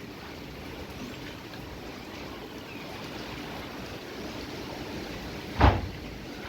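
Strong wind rushing steadily ahead of a rainstorm, with one short, loud thump about five and a half seconds in.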